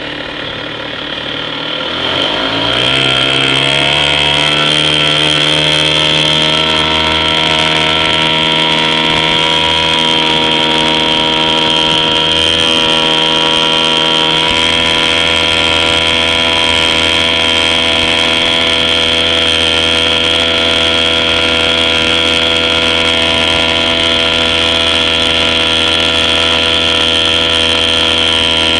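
9 hp Clinton air-cooled two-stroke outboard motor speeding up over the first few seconds as the throttle opens, then running steadily at high speed.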